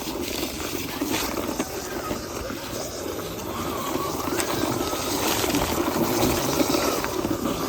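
Six-wheel toy double-decker bus being run along dirt by hand, its wheels making a steady rough rolling, scraping noise.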